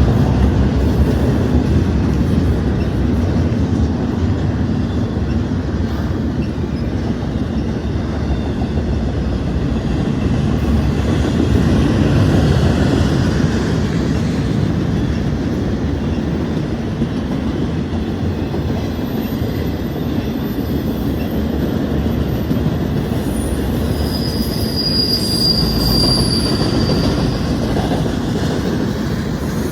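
Union Pacific train rolling past with a steady heavy rumble of wheels on rail. A high, thin wheel squeal rings out for a few seconds near the end.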